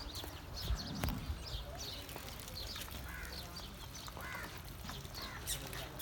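Small birds chirping repeatedly in short, quick calls, over a low steady rumble.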